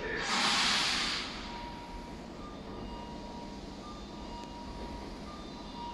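Tobu 500 series Revaty limited express train approaching in the distance: a short hiss in the first second, then a faint steady running hum with a thin steady tone.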